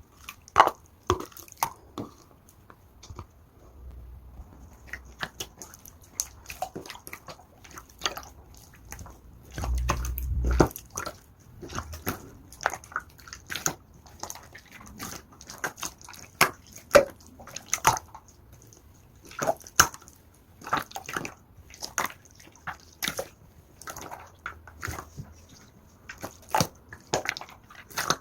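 Clear slime being squished and pressed by hand, making irregular sticky, wet pops and clicks, with a brief low rumble partway through.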